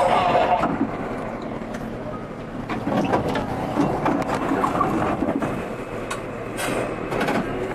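R32 subway car running along the track, a steady rumble of the moving train with scattered sharp clicks of wheels passing over rail joints.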